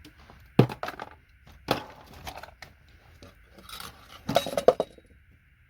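Sharp metallic knocks and clinks of a hammer and paint scraper knocking connectors off a circuit board: a few separate knocks, then a quick cluster of them near the end.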